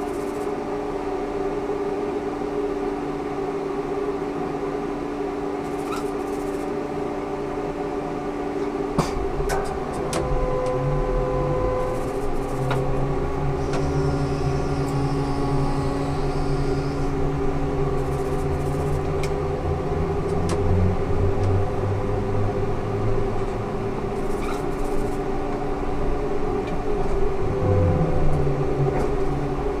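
Ikarus 280T trolleybus with GVM electrical equipment, heard on board: a steady electric hum made of several constant tones. About nine seconds in there is a click, and a low rumble sets in and continues.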